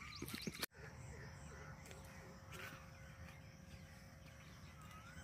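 Faint bird calls, a few short chirps and whistles, over quiet outdoor ambience. The sound drops out for an instant under a second in, and a faint steady hum then runs underneath.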